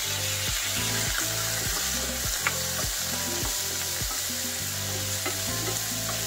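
Diced chayote and carrot sizzling in oil in a non-stick frying pan, stirred with a wooden spatula.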